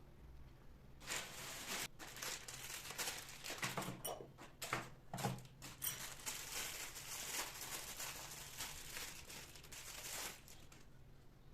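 Packaging being crinkled and rustled by hand, an irregular crackling run that starts about a second in and stops near the end.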